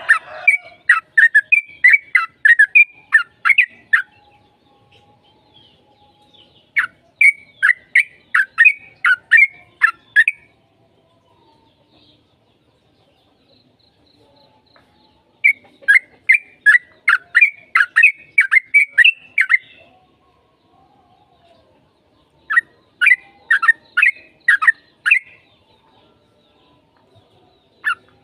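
Yellow-vented bulbul (trucukan) singing in four bursts of quick, chattering, whistled notes, about three notes a second, with pauses of a few seconds between the bursts.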